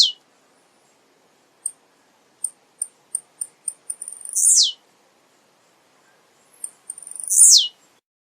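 Male blue-black grassquit (tiziu) singing. Each song is a quick run of short high ticks that ends in a buzzy note sliding steeply down in pitch. Two full songs come about three seconds apart, after the tail of one at the very start.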